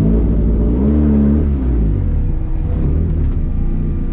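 Volkswagen track car's engine pulling away, rising in pitch for about a second and a half, then easing off and running steadily.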